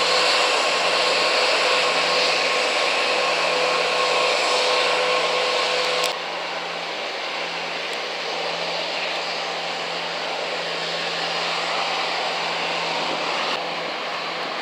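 The rear-mounted Pratt & Whitney JT8D turbofans of a McDonnell Douglas MD-87 running: a steady rushing hiss with a steady whine. About six seconds in it drops suddenly to a quieter rush, as at a cut.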